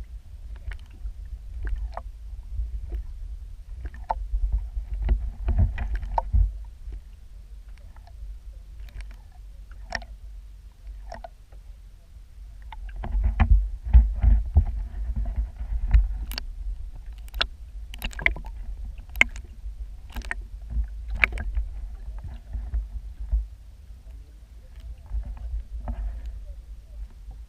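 Water-borne low rumble with scattered sharp clicks and knocks, heard underwater, swelling twice and clicking most often in the second half.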